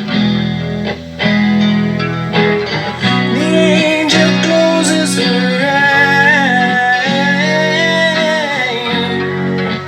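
Electric guitar played through a Zoom G5n multi-effects processor, strumming chords with a lead or sung melody line coming in about three seconds in.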